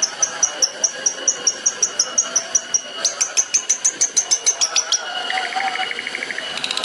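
Long-tailed shrike (cendet) singing a fast run of repeated high notes, about six a second. Around three seconds in it switches to sharper, quicker notes, then to a lower rapid trill near the end.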